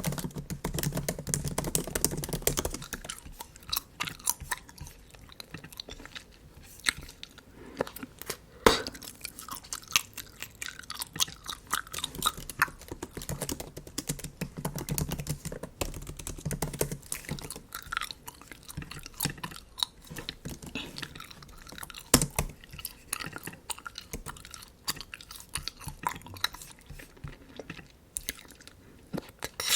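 Bubble gum being chewed close to the microphone: a steady run of small mouth clicks and smacks, with a few sharper pops.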